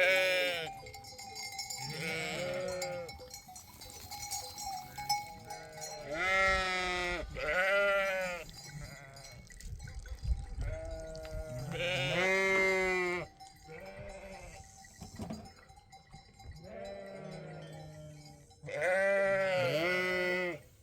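A flock of sheep and goats bleating, calls coming every few seconds and some overlapping.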